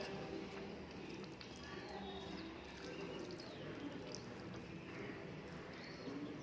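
Faint eating sounds: soft chewing and mouth noises with small scattered clicks.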